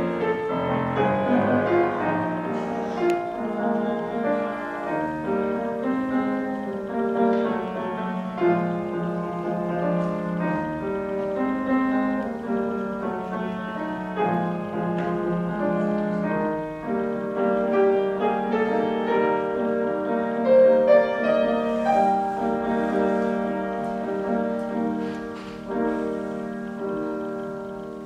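Solo piano playing a classical piece, a continuous stream of notes and chords.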